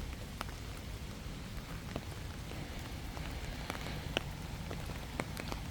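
Light rain falling, a steady hiss with a few scattered sharp ticks of drops landing close by.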